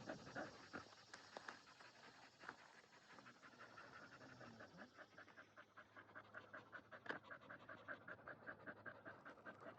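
Dog panting quickly and evenly, out of breath from running around.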